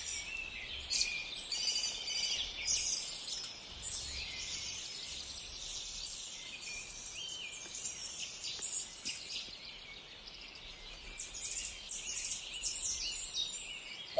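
Several small songbirds chirping and singing, many short high calls overlapping, thinning out in the middle and picking up again near the end, over a faint low rumble.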